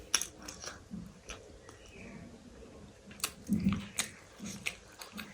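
Close-miked chewing: a person eating, with sharp wet mouth clicks every second or so and a louder, lower stretch of chewing about three and a half seconds in.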